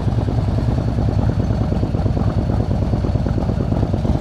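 Harley-Davidson motorcycle V-twin engine idling, a steady rapid pulsing beat, as the bikes sit ready to pull away.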